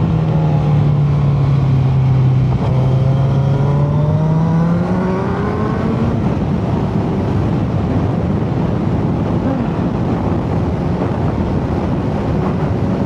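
Motorcycle engine heard from on board while riding. Its note dips and then climbs over the first five seconds or so, then a steady rushing noise takes over.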